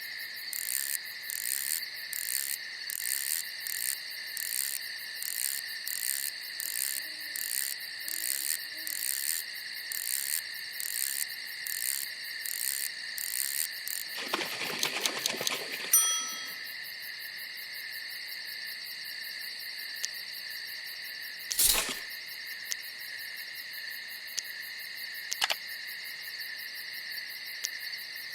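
Crickets chirping at night: a steady high trill throughout, with a fast pulsing chirp over it for the first half. About halfway through comes a short rustle ending in a brief ringing ding, and a sharp knock follows later.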